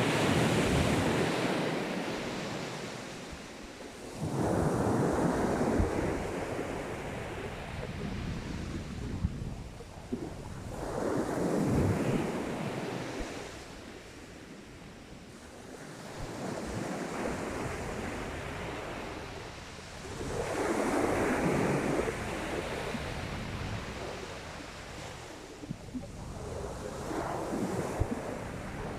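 Sea waves breaking and washing up a shingle beach, each surge swelling and fading away, about six times at intervals of four to seven seconds.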